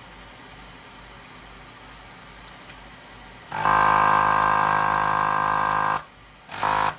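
Vacuum pump of an electric desoldering gun switching on and running steadily for about two and a half seconds as it sucks solder from a cassette port's pins, then a second short burst just before the end. Before it, a low steady hiss.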